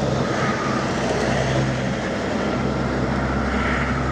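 Heavy diesel engine running steadily at constant speed, with a faint higher whine over it.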